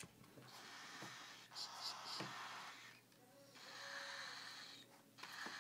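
Cockatiel chick hissing in two long breathy hisses, the first about two and a half seconds, the second shorter near the end: a defensive hiss at being handled.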